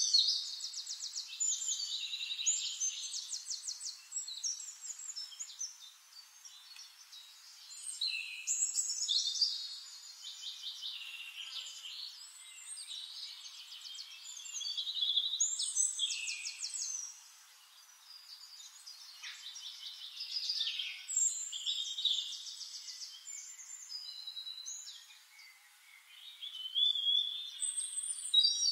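A songbird singing in bursts of warbled phrases and fast trills, a new burst every few seconds.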